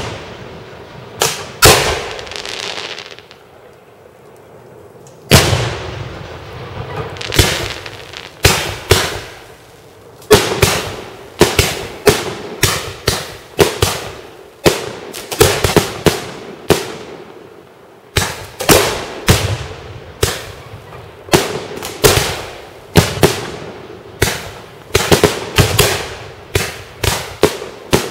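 Fireworks display, shells bursting with sharp, echoing bangs. After a couple of bangs and a lull of a few seconds, a steady run of bursts follows and grows faster, with several bangs a second near the end.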